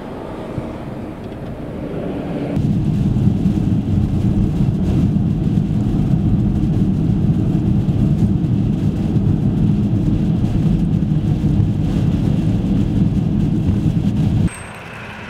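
Strong blizzard wind buffeting the microphone, a loud low rumble that comes in a few seconds in and cuts off suddenly near the end.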